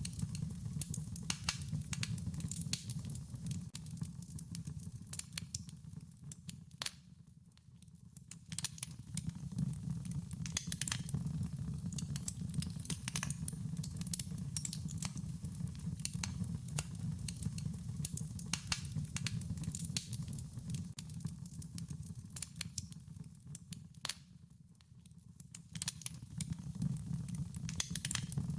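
Wood fire crackling: irregular sharp pops and snaps over a steady low rumble, briefly dying down twice, about a quarter of the way in and again near the end.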